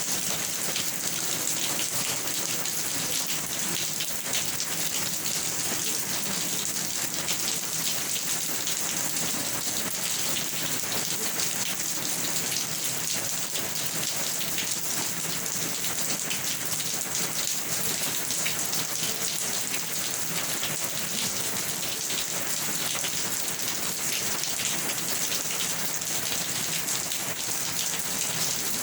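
Steady rain falling, a dense even hiss of many drops pattering on a surface, with no change in strength.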